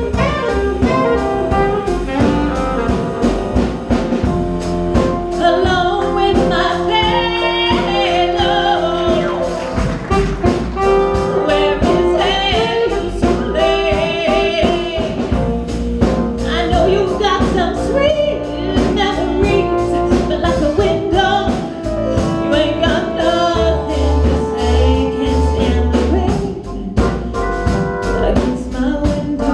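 Live blues band playing an instrumental break of a slow soul tune, with a lead melody line over a steady bass and drums.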